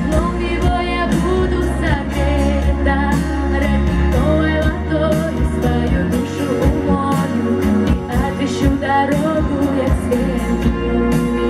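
A female voice singing a pop song over instrumental backing with a steady beat.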